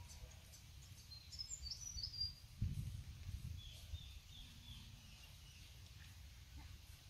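Small birds chirping in short runs of high calls, over a steady low rumble. There is one dull thump a little before halfway.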